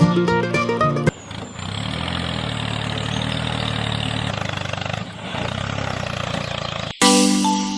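A small electric motor running steadily for about six seconds, with a brief dip about five seconds in. Short stretches of music come just before it and near the end.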